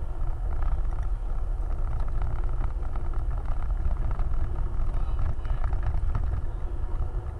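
Off-road vehicle running: a steady low engine rumble, with many light clicks and knocks.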